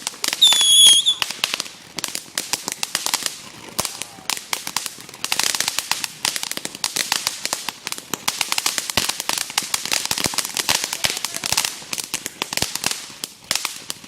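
Consumer fireworks crackling: rapid, irregular pops run on throughout. A short, shrill whistle sounds about half a second in and is the loudest moment.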